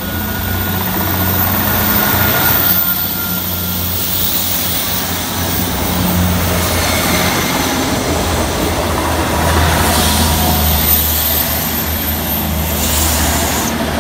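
South Western Railway Class 159 diesel multiple unit passing close by over a level crossing: a loud, steady diesel engine hum under the rumble of wheels on the rails.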